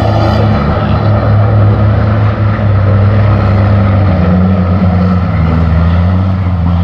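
Heavy truck engine running hard, a loud steady drone whose pitch shifts slightly about four seconds in.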